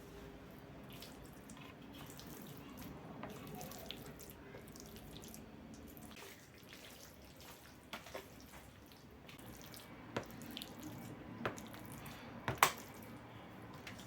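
Water running from a kitchen tap into a sink, with a few sharp clinks and knocks in the second half, the loudest near the end.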